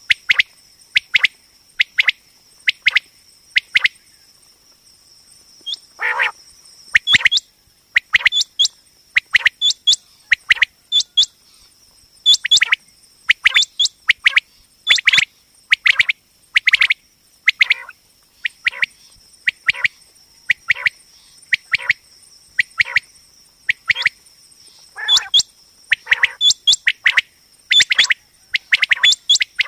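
Common quail calling: short, sharp liquid notes in quick groups of two to four, repeated about once a second. A steady high-pitched whine runs underneath.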